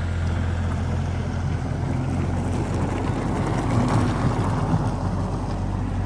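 Excavator's engine running steadily as the machine swings, with a rougher, louder stretch swelling up around the middle and easing off again.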